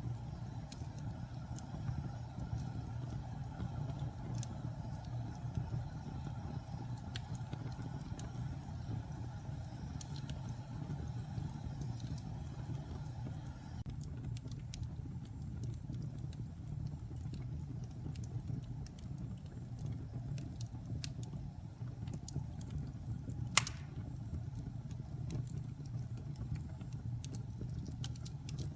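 Campfire of burning logs: a steady low rumble of the fire under scattered crackles and snaps, with one loud pop about two-thirds of the way through.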